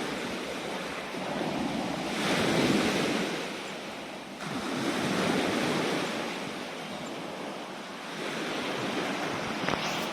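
Sea waves washing in, the surf swelling and ebbing in three surges a few seconds apart.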